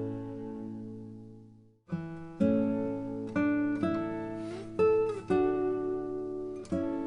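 Background music on acoustic guitar: a chord rings and fades out to a brief gap, then plucked notes and chords start again about two seconds in, with some notes bent.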